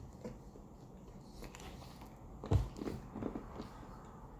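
A person biting into a cotton candy puff snack and chewing it: one sharp crunch about two and a half seconds in, then a few smaller crunches over the next second.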